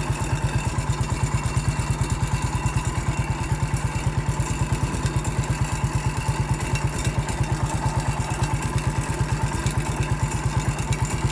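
Massey Ferguson MF 14 garden tractor's engine running steadily through its upright stack muffler, with an even, rapid beat.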